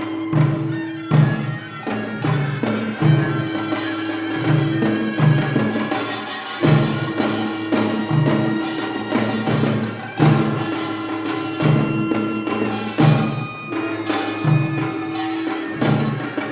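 Korean traditional ensemble playing: a double-reed wind, piri or taepyeongso, holds long reedy notes over a steady beat from janggu and buk drums, with bright metal gong strikes.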